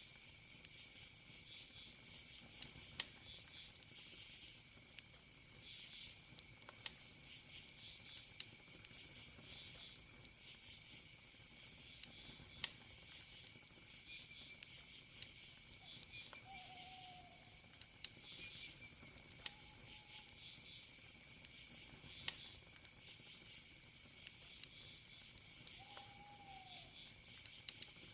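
Wood fire crackling with sharp, irregular pops over a steady, high cricket trill and pulsing insect chirping. Three short, low calls sound about midway and near the end.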